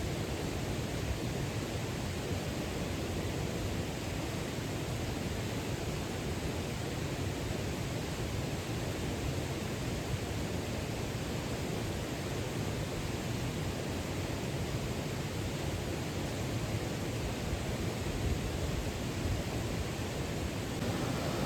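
Steady rushing of a mountain stream, an even wash of water noise with no breaks.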